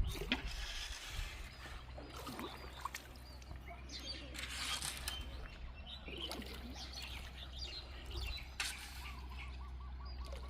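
Birds chirping in short, scattered calls over the soft trickle of a shallow river.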